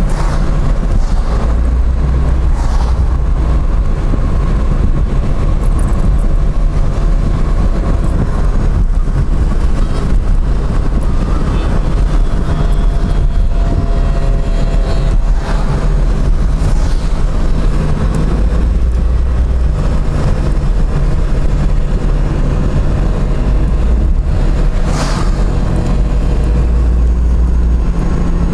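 Vehicles driving on the road: a steady low engine rumble mixed with road noise, with a short hiss near the end.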